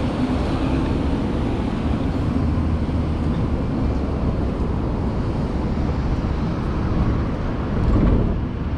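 Steady low wind and road rumble on the microphone while riding an electric motorbike in city traffic, with vehicle noise around it and a brief louder low rumble near the end.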